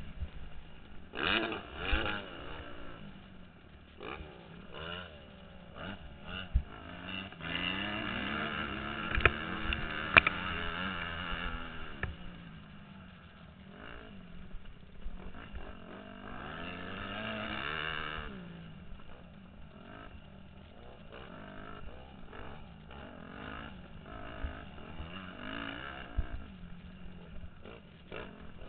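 Motocross bike engine revving up and falling back again and again as the rider accelerates and eases off, heard from a helmet-mounted camera, with a few sharp knocks and clatter from the bike over the track.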